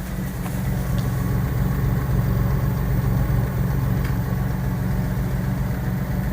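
Ford Scorpio 2.9 EFI's V6 engine running steadily at idle, a little louder from about a second in.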